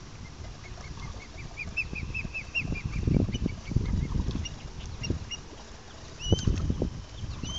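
A bird calling: a quick run of short, rising chirps over the first few seconds, then scattered single notes and a louder curved call near the end. Bursts of low rumbling noise come in about three seconds in and again near the end.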